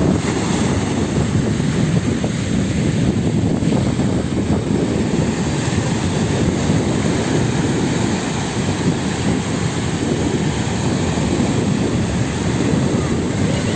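Wind blowing across the microphone by the sea, a steady low rumble over the wash of the water.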